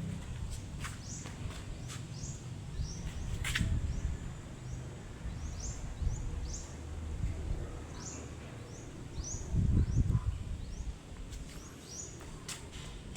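Small birds chirping: a steady run of short, high, upward-sweeping chirps, about two a second, over a low rumble.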